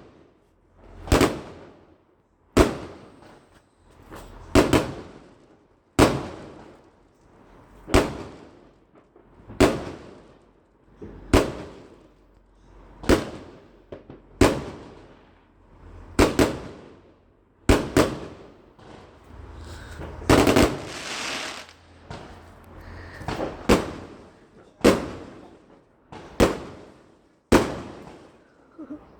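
Fireworks going off in a steady series of sharp bangs, about one every second and a half, each fading away after it. About two-thirds of the way through, a longer crackling hiss sounds between the bangs.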